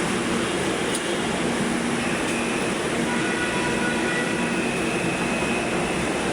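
MRT Line 3 train running on its track: a steady rumble of wheels and car noise, with faint high whining tones joining about two seconds in.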